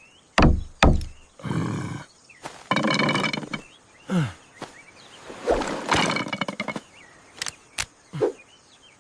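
Cartoon sound effects: sharp knocks and thwacks, with three longer rasping, scraping stretches between them and a few short falling swoops.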